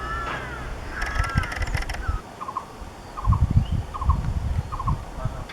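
Wild bird calls: a harsh, rasping call about a second in, then a short clipped call repeated four times, roughly every three-quarters of a second, over low rumbling thumps.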